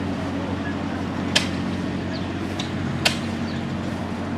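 An engine idling steadily, with two sharp clicks about a second and a half apart.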